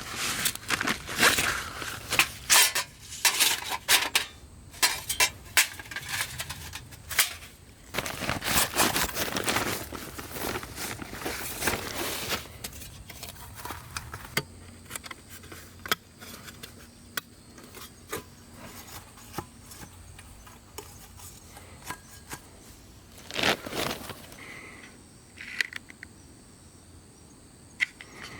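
Irregular clicks, clinks and rustling of camp gear being handled, busiest in the first twelve seconds and sparser after, over a faint steady high-pitched insect drone.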